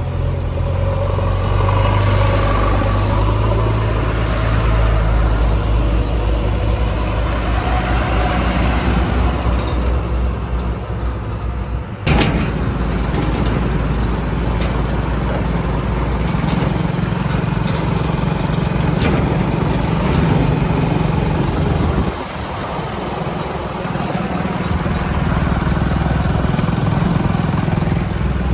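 Diesel engine of a JCB 3DX backhoe loader running steadily while it digs and loads mud, its note shifting with the load. The sound changes abruptly with a sharp click about twelve seconds in, and dips briefly near twenty-two seconds.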